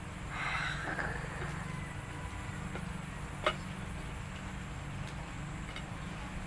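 Hands working at the shell of a boiled blue swimmer crab: a crackling rustle about half a second in and a sharp crack about three and a half seconds in, over a steady low hum.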